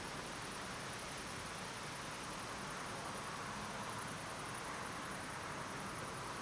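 Steady hiss of night-time outdoor ambience, with a fast, even high-pitched pulsing.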